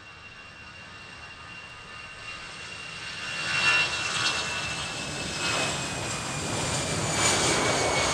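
Airbus A319's CFM56 jet engines at take-off power, growing louder from about three seconds in. A high whine, slowly falling in pitch, sits over the broad engine noise.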